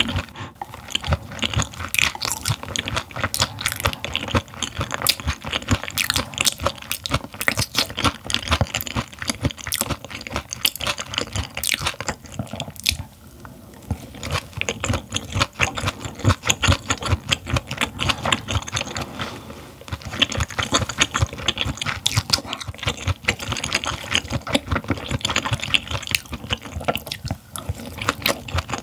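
Close-miked chewing of gizzard shad, a rapid run of sharp crackles, with short lulls about halfway and about two-thirds through as the next bite is taken.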